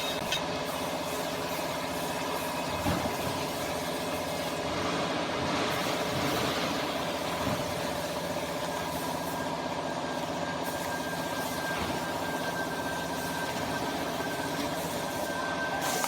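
Hydraulic power unit of a double-cylinder vertical cardboard baler running steadily: an even machine hum with several steady whining tones over a hiss, and a few faint knocks.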